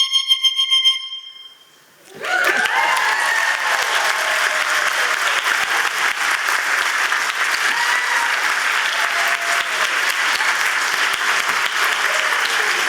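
The end of a person's vocal imitation of a killdeer call, a high whistled note breaking into a fast flutter that stops about a second in. After a short pause, an audience applauds and cheers.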